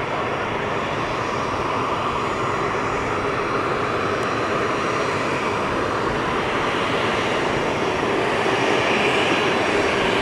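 Boeing 737-400's CFM56 turbofan engines running steadily as the jet taxis, growing a little louder near the end.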